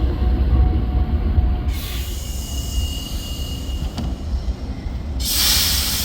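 A train running with a steady low rumble. A thin high squeal comes in midway for about a second and a half, and a loud hiss starts near the end.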